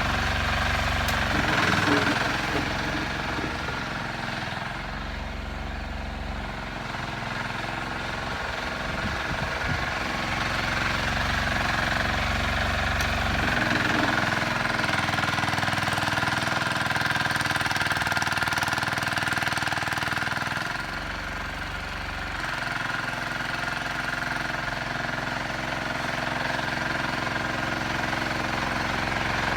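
Sears 8XL garden tractor, converted from gas to electric power, running as it plows snow: a steady whine with a low rumble that swells and drops several times.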